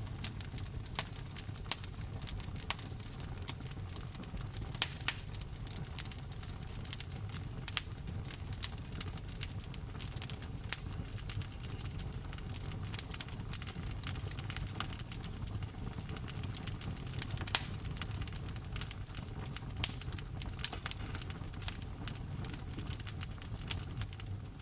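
Wood fire crackling: frequent sharp pops and snaps over a low, steady rumble of the burning fire.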